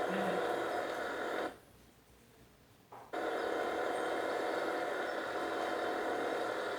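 A machine engine running steadily, with a drop to a much lower level from about a second and a half in until about three seconds, then running again.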